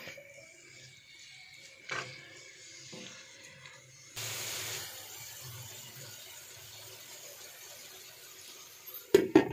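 Diced chicken frying in a non-stick wok with a faint sizzle, and a few light taps and scrapes of a silicone spatula stirring it. A louder burst of hiss comes about four seconds in, and a few sharp knocks come near the end.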